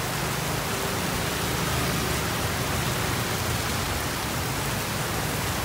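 Heavy rain pouring down on a wet street, a steady hiss over a low rumble.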